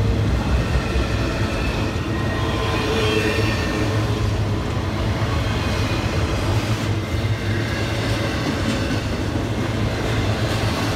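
Enclosed autorack freight cars rolling past close by, a steady rumble and rattle of steel wheels on the rails.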